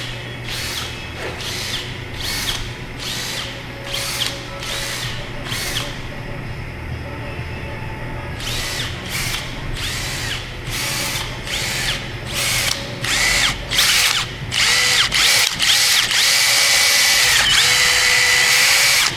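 Handheld power tool run in many short bursts, each with a brief whine, then held on steadily and louder for the last few seconds.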